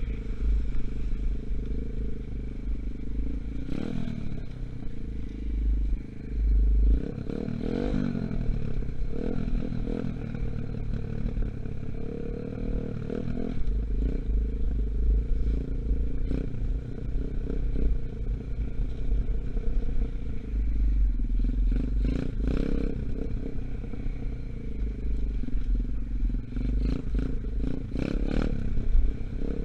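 A 125cc Gunshot dirt bike's single-cylinder engine running under way while the bike is still being run in. Its pitch rises and falls several times as the throttle opens and closes, with a heavy low rumble and a few knocks and rattles.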